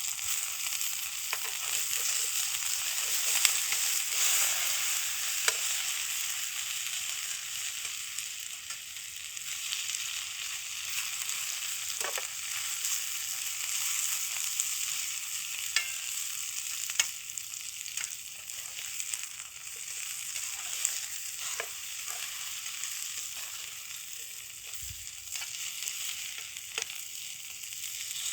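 Sausages frying on a grill over a campfire: a steady sizzle with scattered sharp pops.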